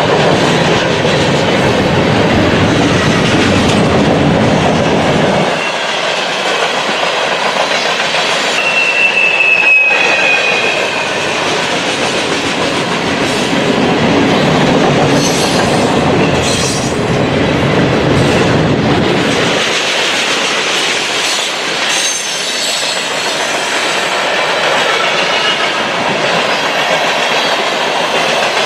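Train cars rolling past with a steady clatter of wheels over the rails, and a thin high wheel squeal held for about two seconds some nine seconds in, with fainter squeals a few seconds later.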